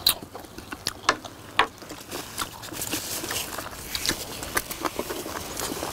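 Several people chewing braised short ribs with their mouths open, with wet lip smacks and a few sharp clicks scattered through.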